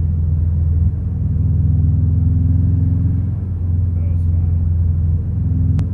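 A 1991 Subaru Legacy Turbo's engine and road noise heard from inside the cabin as it drives, making a steady low drone whose tone shifts a couple of times with the throttle. There is one sharp click near the end.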